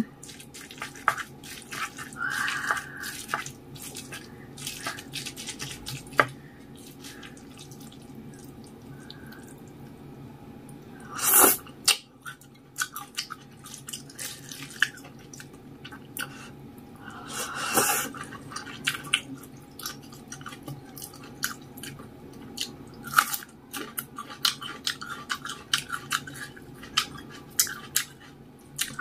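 Close-miked eating: chewing and mouth sounds from wet, spicy noodles mixed with rice, made up of many small clicks and smacks. Two louder, longer sounds come about 11 and 18 seconds in.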